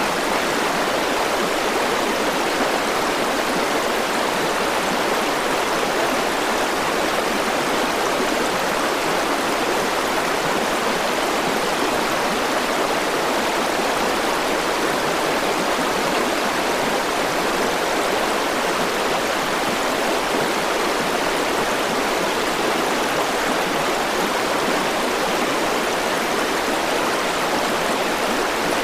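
River water flowing and rushing steadily over a shallow bed, an even wash of noise with no change.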